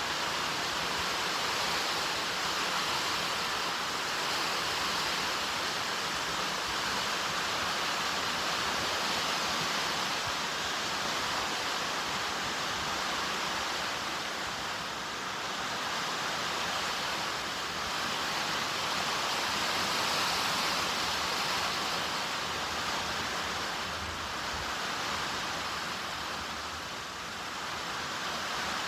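Steady rain falling: an even hiss that swells and eases slightly, with no thunder.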